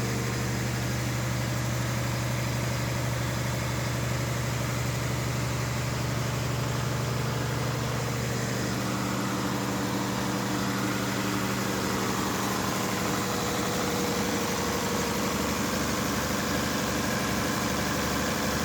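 An engine running steadily at idle, its tone shifting slightly about eight seconds in.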